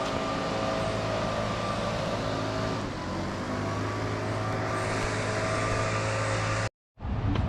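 Steady engine drone over a rushing noise, the hum of a motor vehicle or aircraft. It cuts out for a moment near the end, then resumes.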